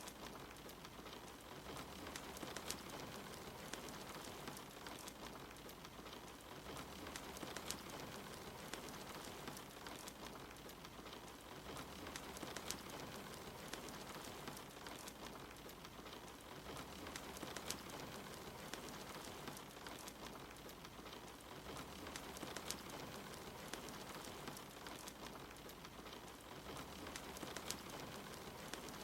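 Steady rain mixed with a wood fire, its crackles popping out as scattered sharp clicks over the rain's even hiss.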